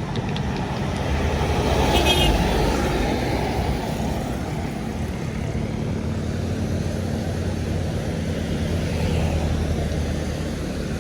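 Diesel tour bus driving past, its engine running, loudest about two seconds in, over steady road traffic noise.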